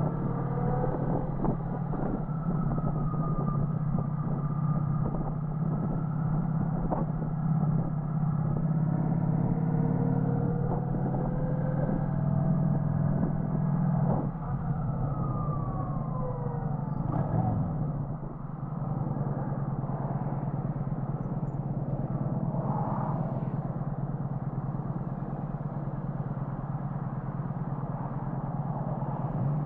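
Motorcycle engine running steadily under way, with road and wind noise and the engine pitch rising and falling now and then.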